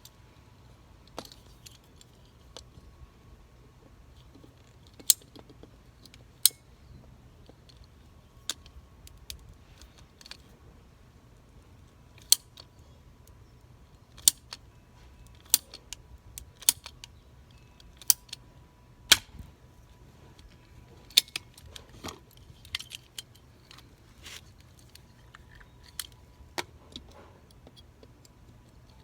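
Pipe-cutting shears squeezing through a dried-out sprinkler pipe, with a series of sharp, irregular clicks about every second or so as the blades bite and the handles work.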